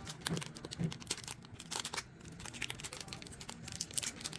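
Plastic packaging of a self-heating meal pack crinkling and crackling in irregular bursts as the heating pack is handled and unwrapped.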